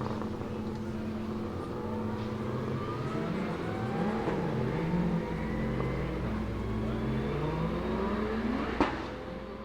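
Maserati MC12 GT1's naturally aspirated V12 race engine accelerating, its pitch climbing again and again as it goes up through the gears, with a single sharp crack near the end as the sound fades.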